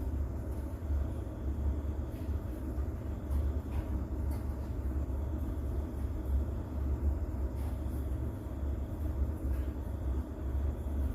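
Rain ambience: a steady wash of rain with a deep, continuous rumble underneath and faint scattered drop ticks.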